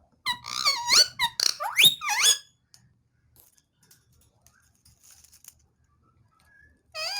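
Green ringneck parrot vocalizing: a quick run of short, pitch-gliding chirps and squawks for about two seconds, then a second run starting near the end.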